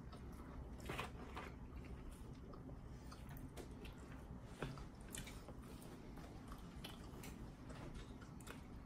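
Faint chewing and biting of breaded chicken nuggets, with a few soft clicks scattered through.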